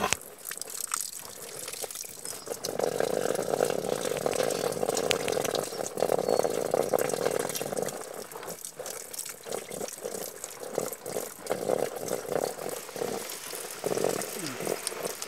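Water running or gushing, starting about two and a half seconds in and going on in uneven spells.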